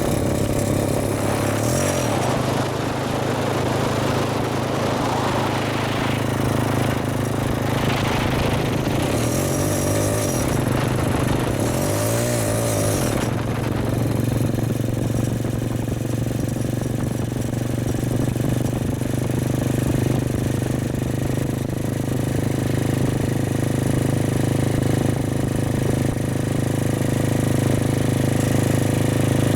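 Four-stroke motorcycle engine running steadily while riding, with a rushing wind and road noise that is heavier in the first half. The engine note swells and falls briefly a few times.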